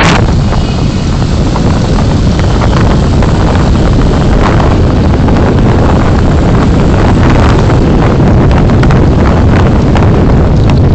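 Car driving, recorded by a dashcam: a steady, loud rumble of engine and road noise with wind buffeting the microphone, broken by many short knocks and bumps.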